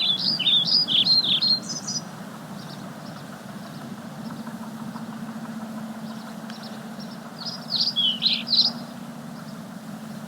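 A songbird singing two quick, warbling phrases of high notes, one at the start and another about eight seconds in, over a steady low engine hum.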